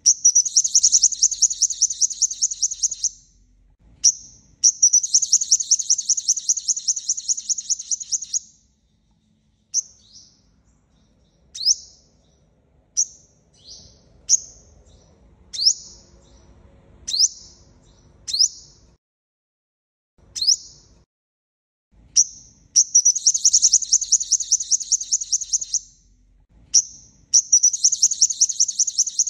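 Sunbird, the 'five-colour' sunbird of Vietnamese bird keepers, singing high, fast trills of rapidly repeated notes, each lasting about three seconds. In the middle comes a run of single short downward-sliding chip notes about a second apart, and then the trills start again.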